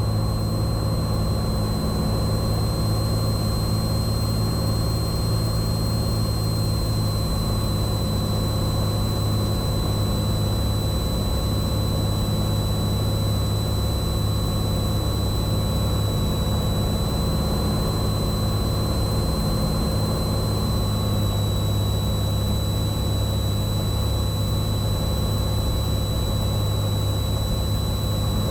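Cessna 182T's six-cylinder Lycoming engine and propeller drone, heard from inside the cockpit and holding a steady pitch, with a thin high whine on top.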